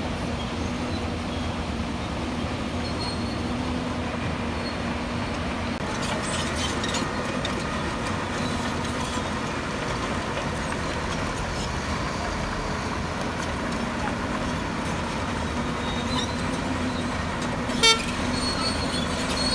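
Heavy earthmoving machinery's diesel engine running steadily. Metallic clanks and knocks start about six seconds in. A single short horn toot sounds near the end.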